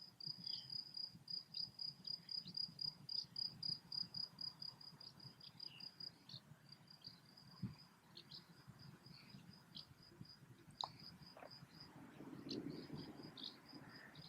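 A cricket chirping, a faint steady train of high chirps about four a second, growing sparser and more broken after about six seconds.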